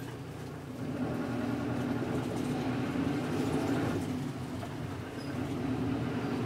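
Steady low rumble of an idling vehicle engine, growing a little louder about a second in.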